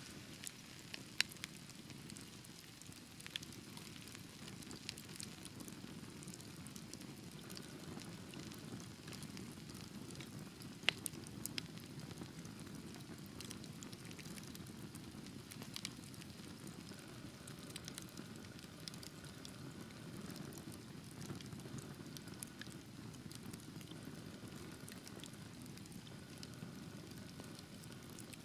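Wood fire burning in a fireplace: a steady low rush of flames with scattered crackles and pops, one sharper pop about eleven seconds in.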